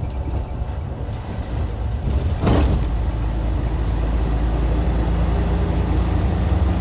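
The Hyundai D6CC inline-six diesel of a Hyundai Universe Comfort bus running steadily under way, a deep drone. About two and a half seconds in, a brief sharp burst of noise lasts about a third of a second.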